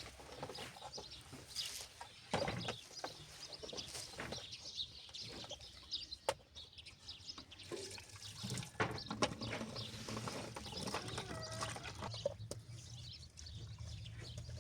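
Domestic fowl clucking off and on among scattered knocks and clatter, over a low hum.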